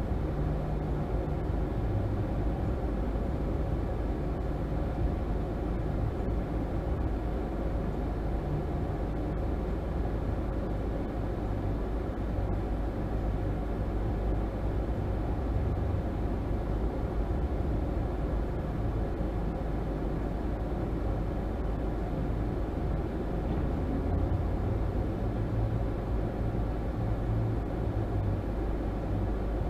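A car's engine idling while the car stands still, heard from inside the cabin: a steady low rumble.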